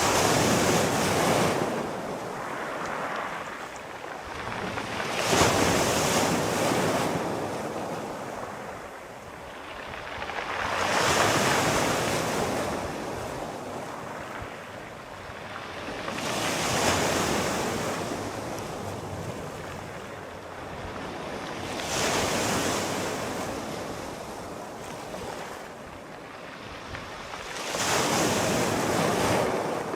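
Sea waves breaking and washing onto a shore, a surge about every five to six seconds, each rising and then fading away.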